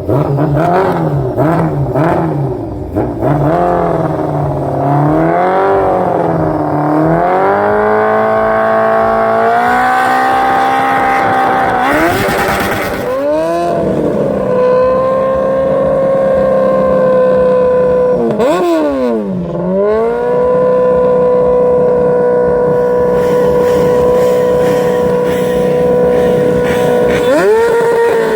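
Loud modified engine being revved hard while stationary: a run of quick throttle blips, then revved up and held at high revs, dropping sharply twice and climbing back, rising again near the end.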